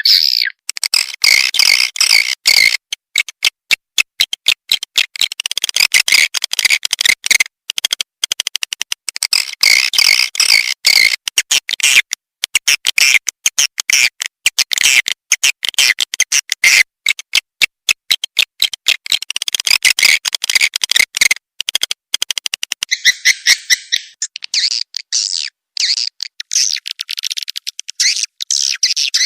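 Swiftlet lure call played back: a rapid, dense twittering of short chirps and clicks from many swiftlets, with brief breaks. It is a 'call and roost' sound used to draw swiftlets into a swiftlet house.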